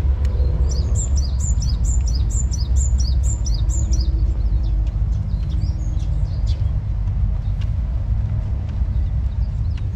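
A songbird sings a quick run of about a dozen high, downward-slurred notes, roughly three a second, for the first four seconds, then gives scattered chirps. A steady low rumble of traffic or wind runs underneath.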